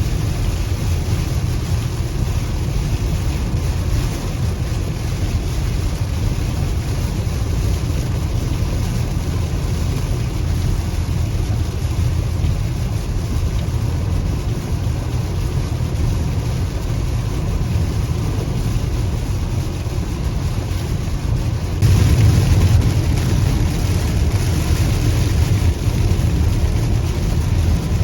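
Car driving through heavy rain: a steady low road rumble under a hiss of rain and tyre spray, which turns suddenly louder and hissier about three-quarters of the way through.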